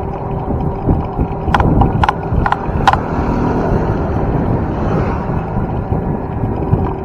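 Wind buffeting the microphone with road and tyre noise from a bicycle ride, plus four short sharp clicks in quick succession from about a second and a half in.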